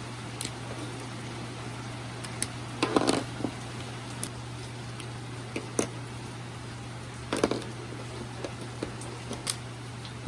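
A steady low hum with scattered light clicks and knocks over it; the loudest knocks come about three seconds in and again about seven and a half seconds in.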